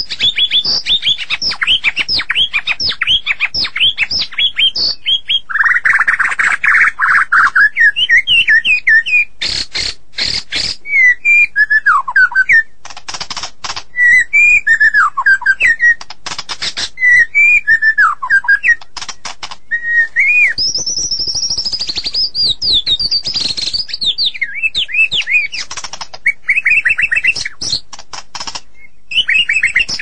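White-rumped shama (murai batu) singing a long, varied song: fast runs of sharp sweeping notes, slurred whistles that rise and fall, and high trills, broken several times by bursts of sharp clicks.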